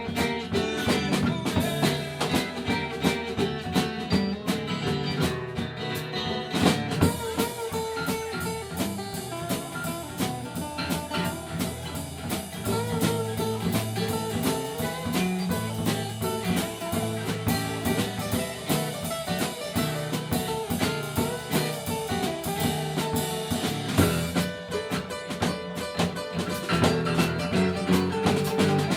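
Live country band playing an instrumental break between verses, with guitar over a steady drum-kit beat.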